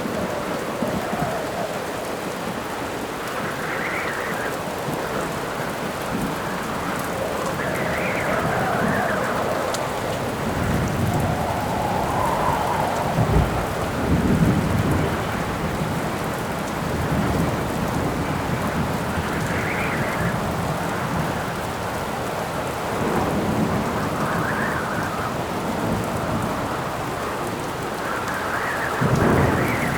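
Steady rain on a surface with wind gusts howling, each swell rising and falling in pitch every few seconds. Low rolls of thunder come about halfway through and again near the end.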